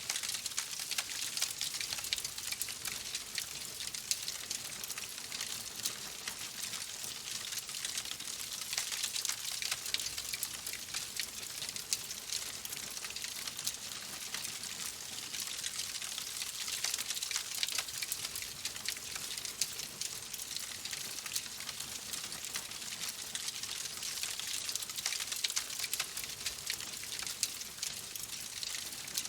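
Wood fire crackling steadily: a dense run of small pops and snaps over a soft hiss, with no pauses.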